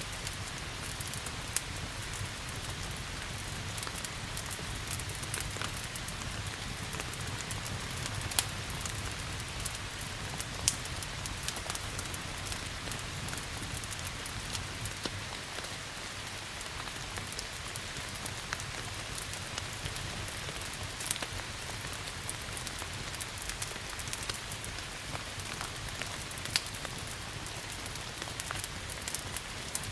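Steady rain mixed with a crackling wood fire: a constant hiss of rain with frequent short, sharp crackles and pops scattered through it, over a low steady rumble.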